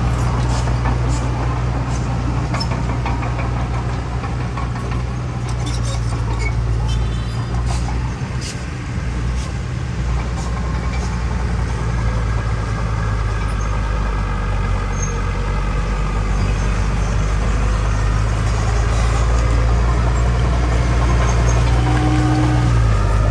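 Heavy diesel earthmoving machinery running: a steady low engine drone with scattered clanks and knocks, mostly in the first half. The engine note shifts and rises slightly near the end.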